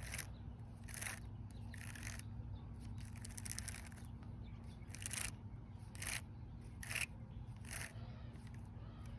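Braided or monofilament fishing line being pulled out of a backlashed baitcaster spool: short scratchy rasps about once a second, a few bunched together near the middle, over a steady low hum.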